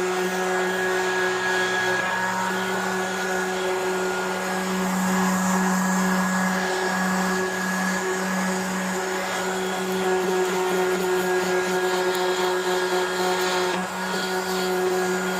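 Electric orbital sander running steadily with a constant motor hum, sanding rust off a metal go-kart seat.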